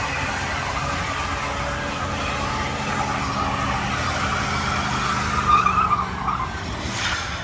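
Truck engine held at high revs with its rear tyres spinning and squealing in a burnout. It surges loudest about five and a half seconds in, then drops off near the end.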